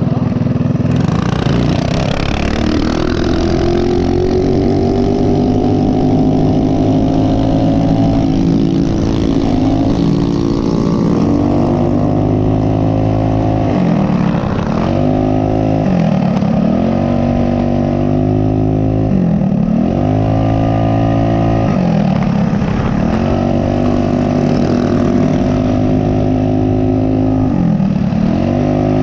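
Mini bike's small single-cylinder four-stroke engine running under load while riding. Its pitch climbs early on, then repeatedly drops and rises again, about six times, as the throttle is eased off and reopened.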